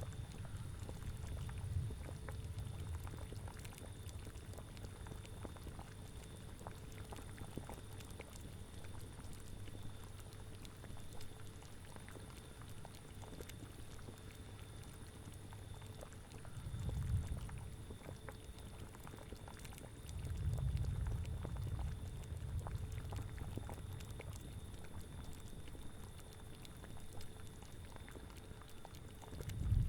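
Cauldron of liquid boiling, a steady bubbling with faint crackling pops over a low rumble. The rumble swells louder twice past the middle and again at the very end.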